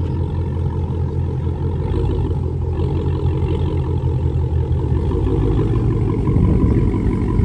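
Car engine running with a deep, steady drone, growing somewhat louder late on.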